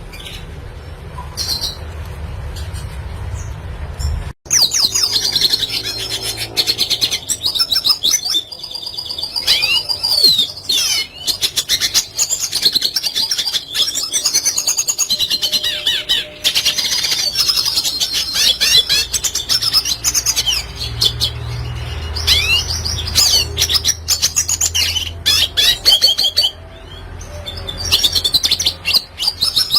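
Red siskin singing a long, fast twittering song of rapid trills and chirps. A low rumble fills the first few seconds, then the song starts abruptly and keeps going.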